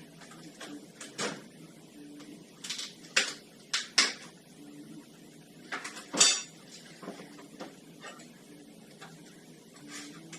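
Metal tools and parts clinking and clanking as they are handled and set down during ATV front-hub disassembly: a string of separate sharp knocks, the loudest about six seconds in.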